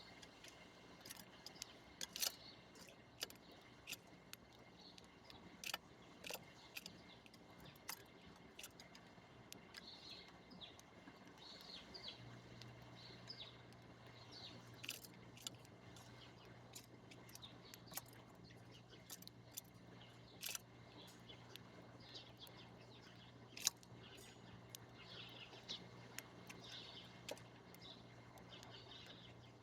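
Faint bird chirps and short calls, mixed with many scattered sharp clicks. A low steady hum comes in about twelve seconds in.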